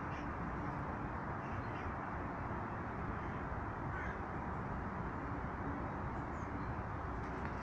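Steady rushing background noise with a few faint, short bird calls scattered through it.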